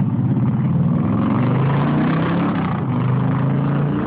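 A vehicle engine running steadily, its pitch shifting a little around the middle.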